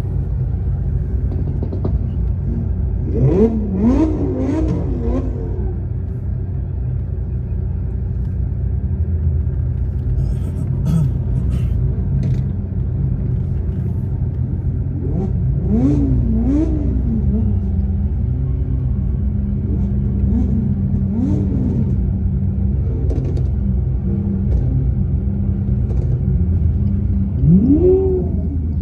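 Supercar engines running with a steady low rumble, with voices briefly now and then.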